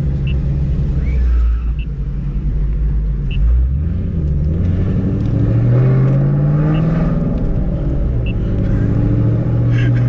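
Ford Shelby GT500's V8 engine pulling away under throttle. Its note rises as it accelerates about four to six seconds in, then holds steady.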